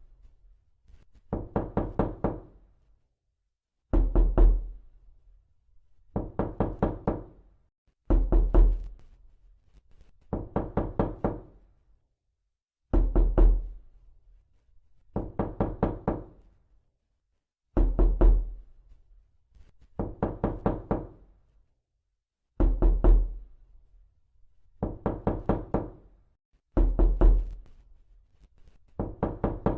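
Knocking repeated over and over: bursts of four to six quick raps, a new burst every two seconds or so.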